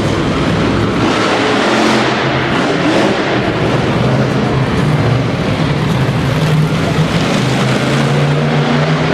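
Monster truck engine running loud, its pitch shifting up and down as it revs, over a dense wash of noise.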